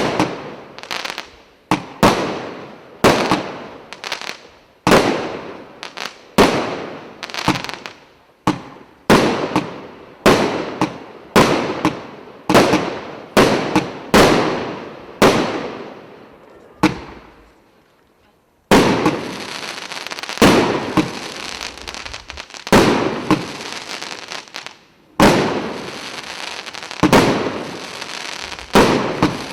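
Fireworks combination battery firing shot after shot, a sharp bang about once a second, each fading quickly. After a short lull near the middle, a steady crackling hiss from crackling-star effects fills the gaps between the bangs.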